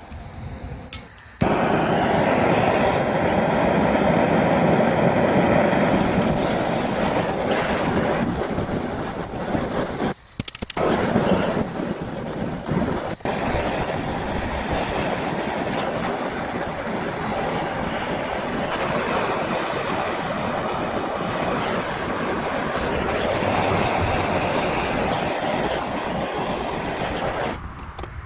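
Gas torch flame burning steadily, heating the aluminium strut arm so its ball-joint bore expands. The flame starts abruptly about a second in, drops out briefly about ten seconds in, and goes out just before the end.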